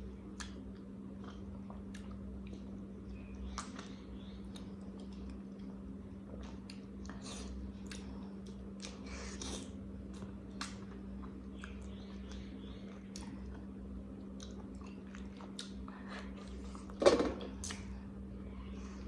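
Close-miked mouth sounds of a person chewing and swallowing food: scattered short wet clicks and smacks, with one louder sudden mouth sound near the end. A steady low hum runs underneath.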